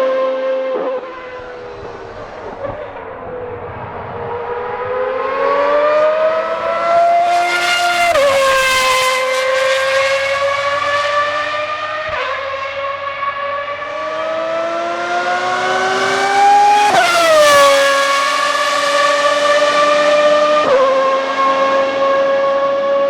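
Ferrari 412 T1B Formula 1 car's 3.5-litre V12 engine running hard at high revs, loud and high-pitched. Its note climbs steadily in pitch, drops sharply twice, climbs again and falls off steeply with a burst of hiss, then holds a steady high note.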